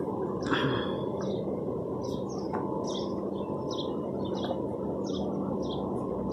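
A small bird chirps over and over in short, high, slightly falling notes, about two a second, over steady background noise. A brief louder sound comes about half a second in.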